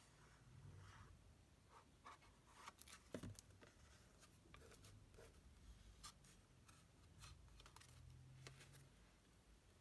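Faint, scattered taps and rustles of paper card stock being handled and pressed together while a card is assembled.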